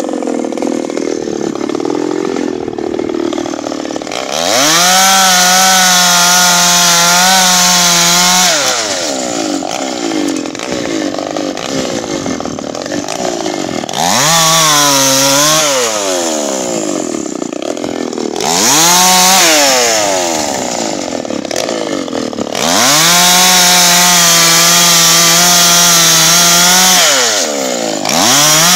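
Two-stroke chainsaw cutting wood: it revs up to full throttle and holds there for the cuts, about five times, two of them about four seconds long, and drops back to a lower idle between them.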